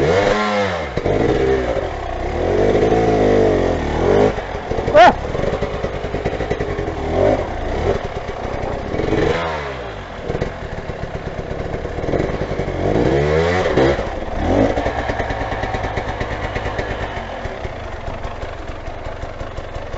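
Motorcycle engines revving, their pitch sweeping down and up in several bursts with a sharp rev about five seconds in, then running more steadily toward the end.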